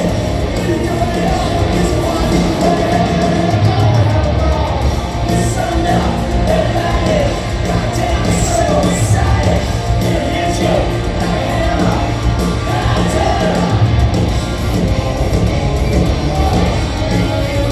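Rock band playing live in a large arena, with lead vocals sung over a loud, dense backing of guitars, bass and drums.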